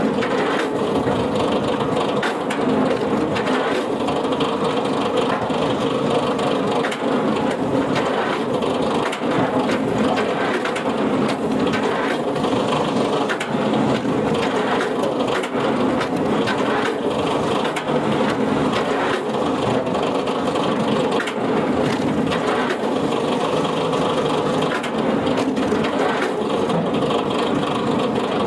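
A heavy wood-processing machine crushing and splintering wood: a steady, dense crackling and grinding with many small cracks.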